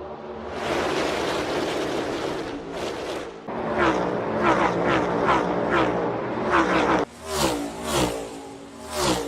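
NASCAR Next Gen stock cars' V8 engines passing at racing speed one after another, each engine note dropping sharply in pitch as the car goes by. A rushing stretch comes first, then a tight string of passes, then a few spaced-out single cars near the end.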